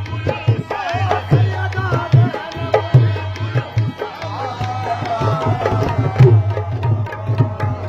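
Qawwali music: a dholak beating a steady, driving rhythm under a wavering melodic line, closing on a final hard stroke at the end as the piece finishes.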